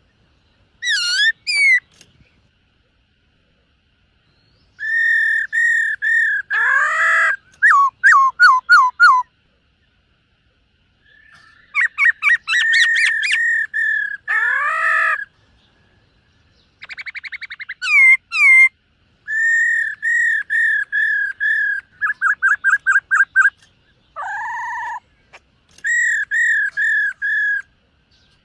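Black-throated laughingthrush singing: loud, clear whistled phrases of quickly repeated notes, some sliding downward, broken by short silent pauses between phrases.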